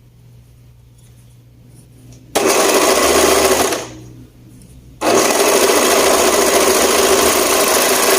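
Electric sewing machine stitching a side seam in two runs: a short burst about two seconds in, then a longer steady run from about five seconds in.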